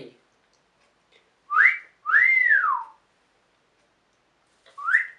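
Red-crowned amazon parrot whistling: a short rising note, then a longer note that rises and falls, about two seconds in, with another short rising note starting near the end.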